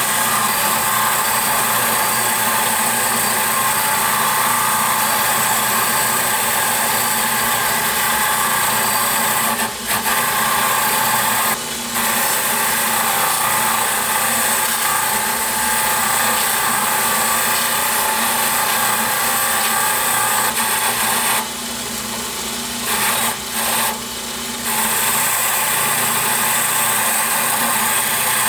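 An electric power tool runs steadily on the vise's steel parts. Its level dips briefly a few times, about a third of the way in and again near the middle and later on.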